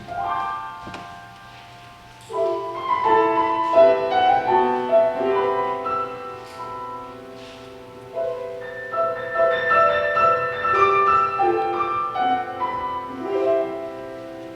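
Piano music: melody notes over chords, in phrases with a short lull after the opening note and another midway.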